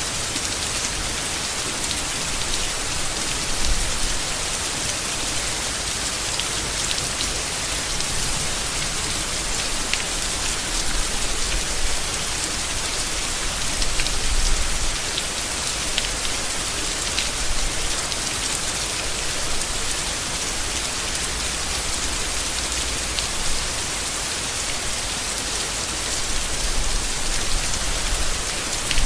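Steady rain falling on leaves, with scattered sharper drips standing out from the even patter.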